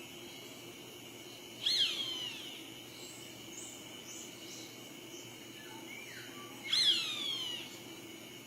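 A bird calling twice, several seconds apart, each call a sharp cry that slides down in pitch and lasts under a second. Faint short chirps come between the calls, over a steady high-pitched background tone.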